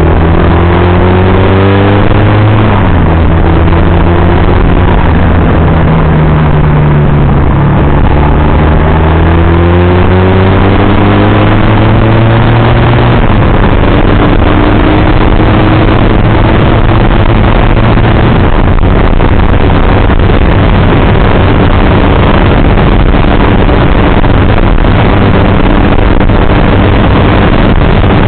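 Motorcycle engine running under way with steady wind rush over the microphone. The engine note shifts and climbs, drops about thirteen seconds in as at a gear change, then holds steadier.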